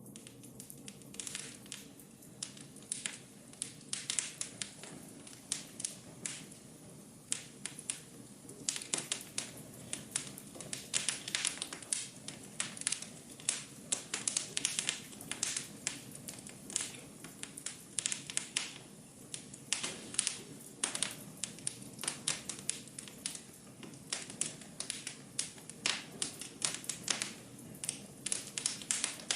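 Wood fire burning in a fireplace: frequent sharp crackles and pops over a low steady hiss of the flames.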